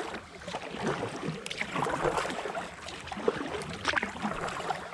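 Kayak paddle strokes in river water: irregular splashing and dripping from the blades, with a few sharper splashes.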